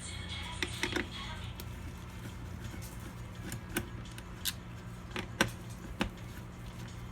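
Scattered light clicks and taps, about ten of them at irregular spacing, from computer parts being handled and fitted during a PC build, over a steady low hum.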